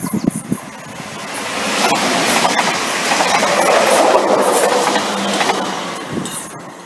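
Siemens Desiro electric multiple unit running through the station at speed without stopping: the rushing wheel-on-rail noise swells, peaks for a few seconds as it passes, then fades as it pulls away. Faint clicks from the wheels run through the loudest part.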